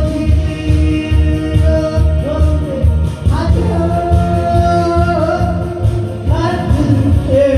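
Live singing of a Korean trot-style song over a backing track, long wavering held notes above a steady pulsing bass beat.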